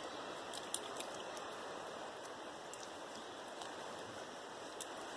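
Steady rush of a flowing river, with a few faint ticks over it.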